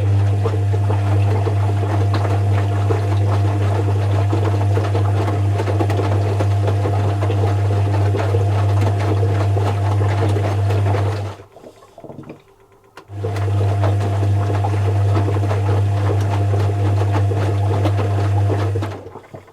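Zanussi FC1000 compact washing machine running with a steady low hum over a rushing noise for about eleven seconds. It stops for a second or two, then starts again and runs for about six seconds more.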